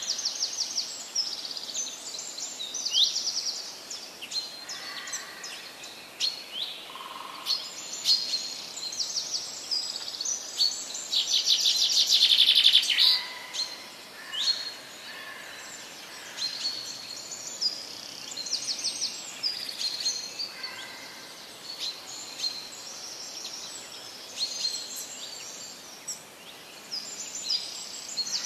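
Birds chirping and singing in short repeated phrases and rapid trills, the loudest a long buzzy trill near the middle.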